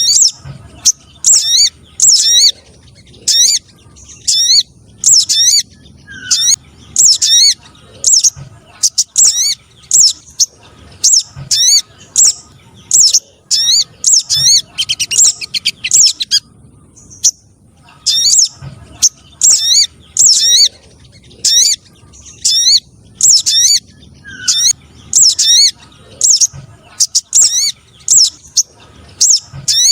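Recorded lure call of the spiderhunter known as sogon trotol: a fast, unbroken run of short, high, sharp chirps, repeated about twice a second, with a pause of about two seconds near the middle.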